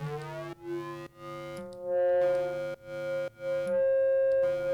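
Synthesized DnB 'foghorn' bass: a square wave fed back through a very short delay with heavy feedback, giving a resonating, feedbacky ring. A phrase of short notes that change pitch, with the ring getting louder from about two seconds in.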